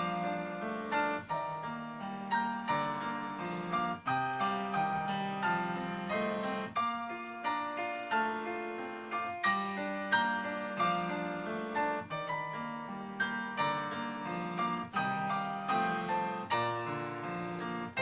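Solo piano playing a slow melody over chords and a bass line, each note struck and left to fade.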